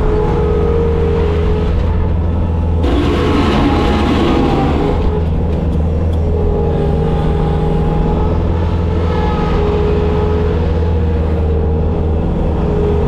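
Bobcat skid steer's diesel engine running steadily at working revs, its pitch drifting slightly. About three seconds in, a harsher, noisier patch lasts a couple of seconds.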